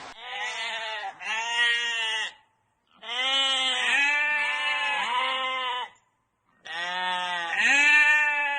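A goat or sheep-like farm animal bleating: several wavering, pitched calls in three groups, broken twice by a short, abrupt silence.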